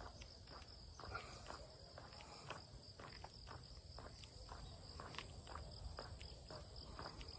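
Footsteps walking along a forest path at a steady pace, over a steady high-pitched chirring of insects.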